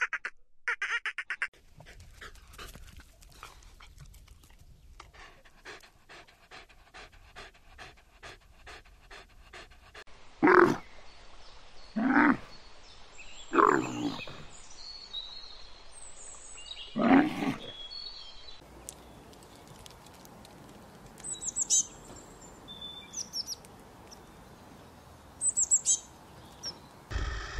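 Dolphins' rapid pulsed squawks, then a long train of clicking. Then a dromedary camel gives four loud, rough calls a second or more apart, followed by a Eurasian bullfinch's short high chirps.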